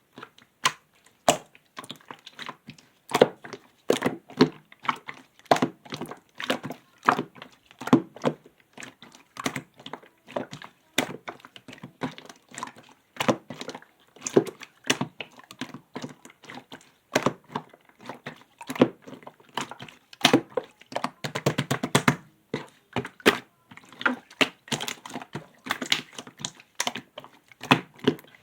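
Clear slime being pressed and poked by hand, giving a steady run of sharp clicking pops, a few each second, with a quick rapid flurry about three quarters of the way through.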